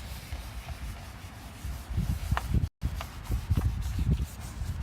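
Toothbrush scrubbing toothpaste with baking soda on a plastic headlight lens, a run of rubbing strokes, with wind buffeting the microphone. The sound drops out for a split second near the middle.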